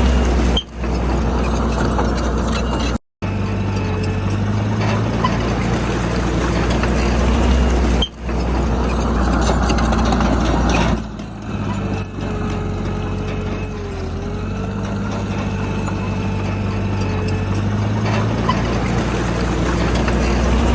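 Heavy diesel earthmoving machinery running steadily under load, heard across several short clips joined by cuts, with a brief dropout about three seconds in. A faint whine that wavers slightly comes in partway through.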